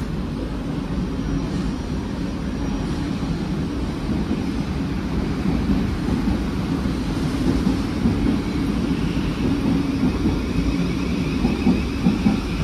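Thameslink Class 700 electric multiple unit pulling into the platform and running past, a steady low rumble of wheels and running gear that grows louder toward the end. A faint whine comes in near the end.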